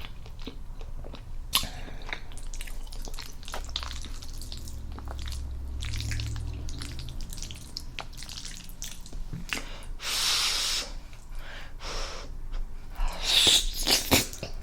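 Close-miked eating sounds: a person chewing, with many small wet mouth clicks and smacks. A louder rushing noise lasts about a second around ten seconds in, and a cluster of louder mouth noises comes near the end.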